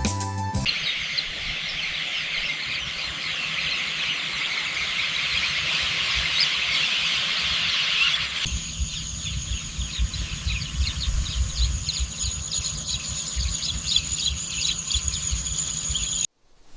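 Outdoor field ambience: a dense, steady chorus of high-pitched chirping from many small animals, with a low rumble of wind underneath. About halfway through it changes to a thinner chirping over a steady high whine, then cuts off abruptly just before the end.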